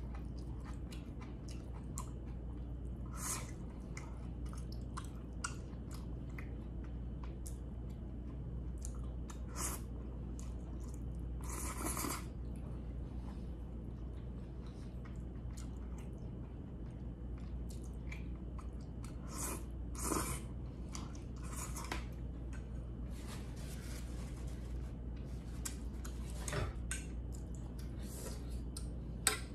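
Mouth chewing a mouthful of stir-fried glass noodles with beef and vegetables, a run of short wet clicks with a few louder noisy bursts about 12 and 20 seconds in. A steady low hum runs underneath, and there is a sharp click near the end.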